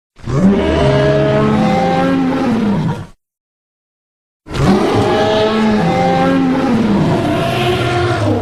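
Fan-made dinosaur roar sound effect for the fictional Baxirosaurus: two loud roars, each about three to four seconds long, with a pitch that rises and falls in an arc, separated by about a second and a half of silence.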